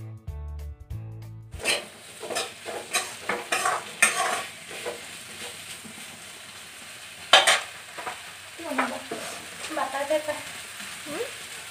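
Background music for about a second and a half, then a metal spatula stirring and scraping food frying in a sizzling wok, with one louder scrape against the pan about seven seconds in.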